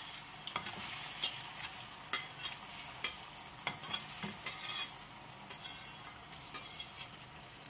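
Gram-flour pieces going into hot mustard oil in a kadhai, sizzling steadily. Frequent irregular clicks and scrapes come as a spatula pushes the pieces off the plate into the pan.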